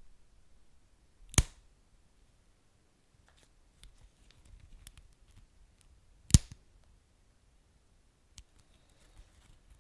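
Wood fire crackling sparsely, with two sharp loud pops about five seconds apart and faint ticks in between.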